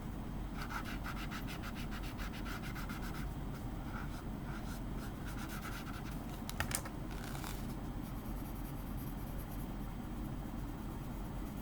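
Quick repeated strokes of a drawing tool rubbing on paper while shading and blending, strongest in the first few seconds and then fainter, with one sharp tap about two-thirds of the way through.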